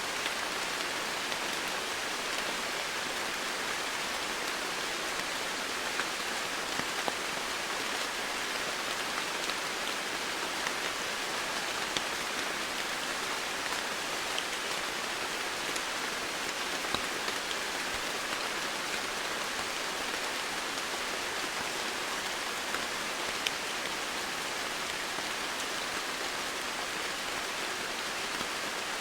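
Steady, dense rainfall, an even hiss with scattered single drop ticks on top.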